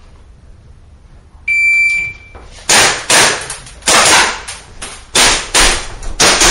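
A shot timer's start beep sounds once, followed by a string of about eight pistol shots fired at irregular spacing as the shooter begins a practical pistol stage.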